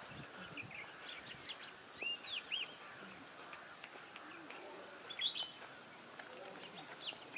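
Birds chirping: short, arched high notes in quick groups, about two seconds in and again about five seconds in, over a steady outdoor hiss.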